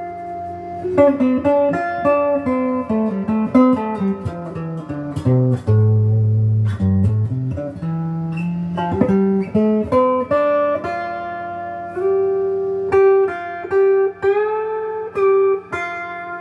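Donner DLP124 electric guitar with its stock setup and factory strings, played clean through a Crate GX15 amp. Single-note lines run down to low notes around the middle and climb back up, with string bends and held notes near the end.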